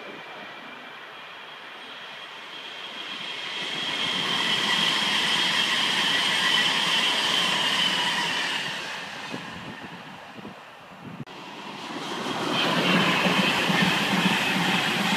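Virgin Trains Class 390 Pendolino electric train running past the platform, with a steady high whine that swells about a third of the way in and dips a little after the middle. Near the end it comes back louder, with a rapid low rumble of wheels on the rails.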